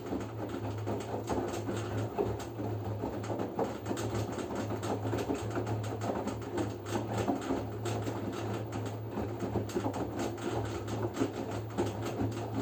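LG F10B9LD front-loading washing machine in its second rinse: the drum turning laundry through the rinse water, with a low motor hum that cuts in and out under a steady run of sloshing and small knocks.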